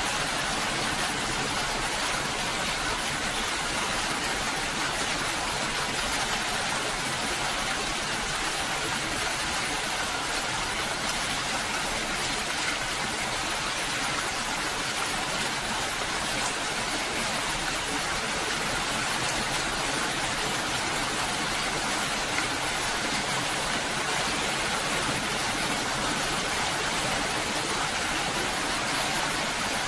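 Steady rain falling, an even, constant hiss that does not change.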